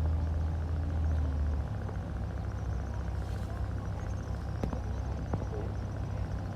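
Boat engine running steadily with a low, even drone that steps down slightly about a second and a half in. A faint high insect buzz runs underneath, with a couple of brief clicks.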